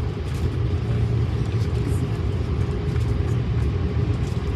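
Steady low rumble inside an Airbus A330 cabin: engine and airframe noise.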